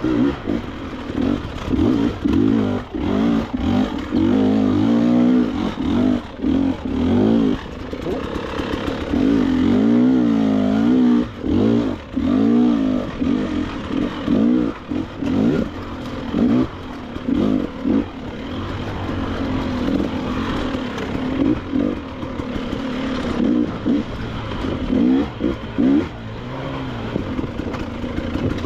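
KTM 300 XC-W two-stroke dirt bike engine being ridden on a rough trail, its revs rising and falling constantly as the throttle is opened and shut, with brief drops where the throttle is chopped.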